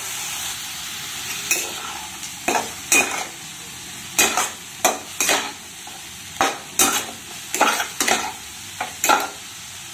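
Chicken pieces in green masala sizzling in oil in a non-stick kadai, with a steady frying hiss and about a dozen irregular spatula strokes scraping and turning the chicken in the pan.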